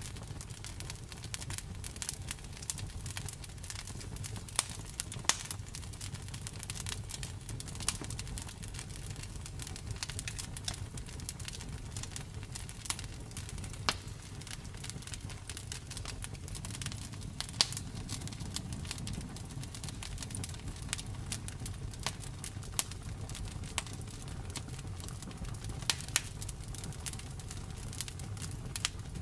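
Wood fire burning: a low steady rumble with frequent irregular crackles and pops, a few sharper snaps standing out.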